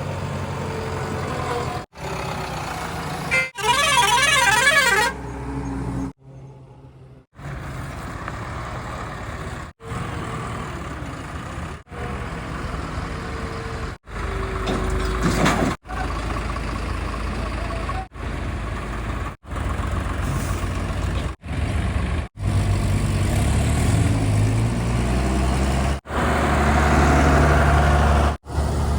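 Heavy diesel vehicles running in a quick series of short clips that cut off abruptly every second or two. A loud warbling horn sounds for about a second and a half, about four seconds in.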